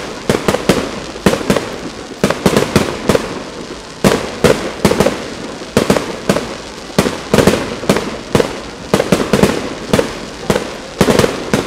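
Aerial fireworks bursting in quick succession: a dense run of sharp bangs, several a second, each trailing off.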